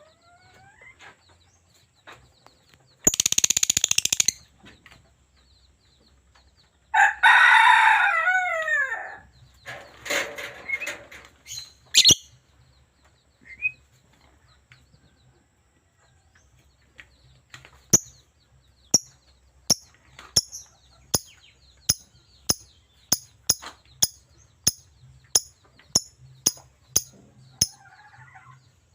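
Lovebird calling: a harsh buzzing burst about three seconds in, then a long call falling in pitch, then from about halfway on a run of sharp, high chirps, about one and a half a second, coming a little faster toward the end.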